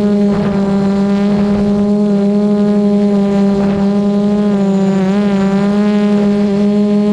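DJI Mavic Pro quadcopter's propellers whining steadily and close by, the pitch wavering briefly about five seconds in. Wind buffets the microphone in the first couple of seconds.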